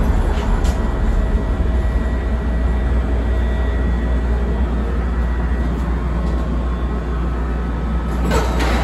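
CTA Blue Line rapid-transit car running along the track: a steady, loud rumble of wheels on rails. A couple of faint clicks come near the start and a brief falling squeal near the end.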